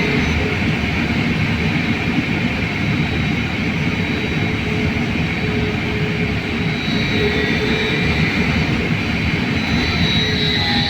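Belkommunmash BKM-43300D trolleybus running, heard from inside: a steady loud rumble of road and running noise with the high electric whine of the traction drive. Near the end the whine tones shift in pitch as the speed changes.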